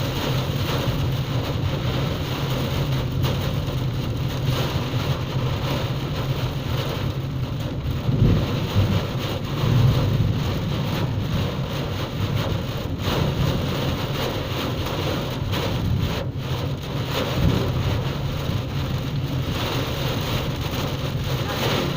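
Heavy rain pouring steadily in a storm, with a couple of louder low rumbles about eight and ten seconds in.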